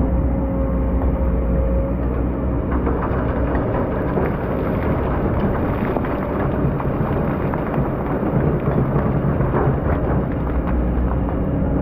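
Excavator's diesel engine running steadily under load, with dense crackling and grinding from about two seconds in as the bucket works through hard, compacted sand.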